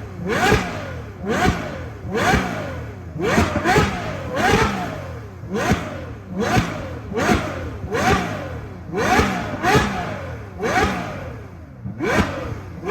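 Straight-piped Ferrari F12 Berlinetta V12 revved in quick repeated blips, about one a second: each rises sharply in pitch, cracks at the top and falls back as the revs drop.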